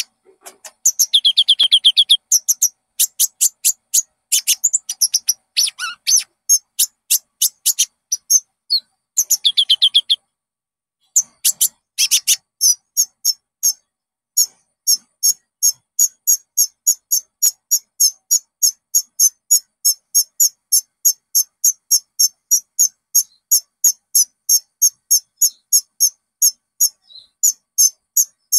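Konin (kolibri ninja sunbird) song: short, sharp, high-pitched chirps repeated in a long series. It begins with a few seconds of denser trilling, breaks off briefly, then settles into an even run of about three chirps a second.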